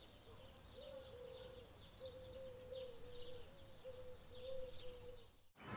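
Faint birdsong: short high chirps repeat about twice a second over a low, steady, slightly wavering note. It all cuts off suddenly near the end.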